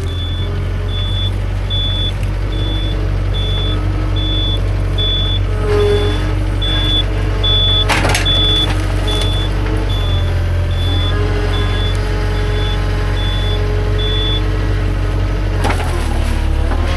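Engine of a heavy machine running steadily, with its reversing alarm beeping high and evenly about every 0.8 s, then falling silent a couple of seconds before the end. There is one sharp crack about halfway through.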